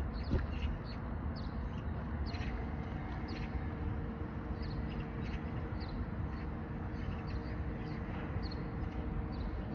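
Small birds chirping in short, scattered calls over a steady low rumble of outdoor ambience with a faint steady hum.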